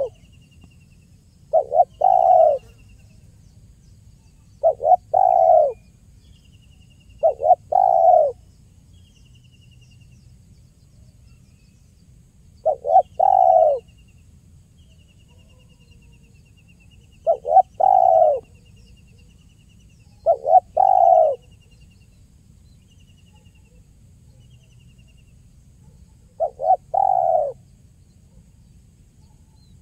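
Spotted dove (tekukur) cooing: seven short phrases, each a couple of quick notes then a longer falling coo, repeated every three to five seconds. Faint chirping of another small bird runs in the background.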